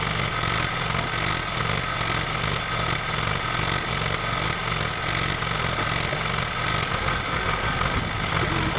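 An engine running steadily at idle, a constant mechanical drone with a rapid low rumble.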